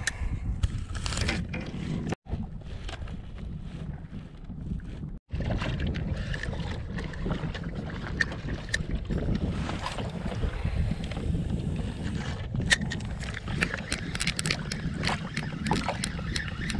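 Wind buffeting the microphone and water sounds from a kayak out on the water, with many scattered sharp taps that come thicker in the second half. The sound cuts out briefly twice early on.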